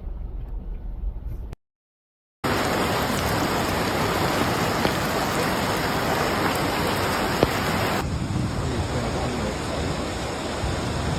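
Heavy rain pouring down as a steady, even hiss. It comes in after a brief cut to silence about two seconds in, with a low rumble before the cut.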